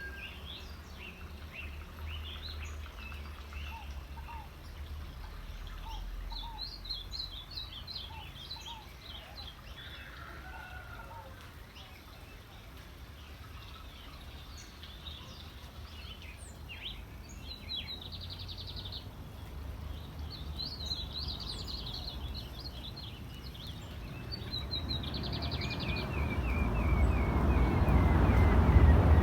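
Birds chirping and trilling, with short calls, fast trills and a falling run of notes, over a steady low rumble. A broad rush of noise swells from about four seconds before the end and becomes the loudest sound.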